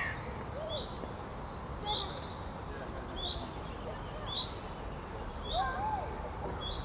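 A small songbird repeating a short, high, rising call about once a second, six times, over faint background birdsong.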